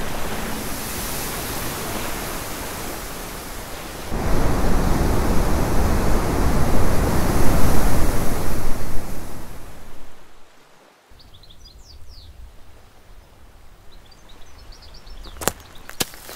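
A propeller aircraft's drone fades. About four seconds in, a louder, even rushing noise starts abruptly and dies away at about ten seconds. After that it is quiet apart from a few faint high chirps and some sharp clicks near the end.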